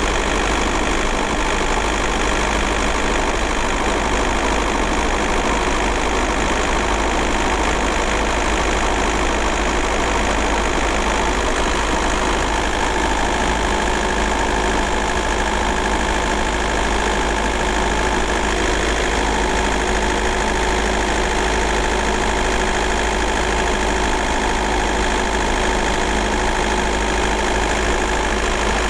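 VW Golf Mk4 4motion's 1.9 TDI four-cylinder turbodiesel running steadily with a diesel knock, holding an even pitch without revving.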